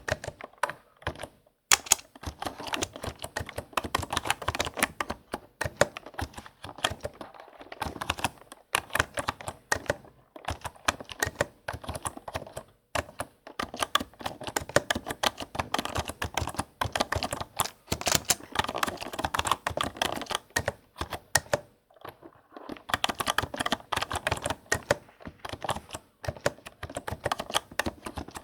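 Typing on a computer keyboard: fast runs of key clicks, broken every few seconds by short pauses.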